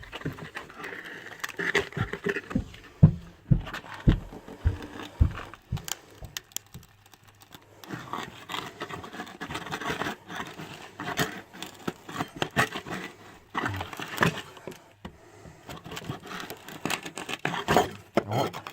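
A timber beam being pried off a brick wall with a bar: irregular knocks and cracks of wood and nails giving way, with scraping and crackling as it works loose.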